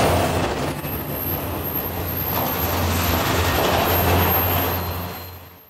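Intermodal freight train's trailer-carrying flatcars rolling past slowly at restricted speed, a steady rumble of wheels on rail with a low hum underneath, fading out near the end.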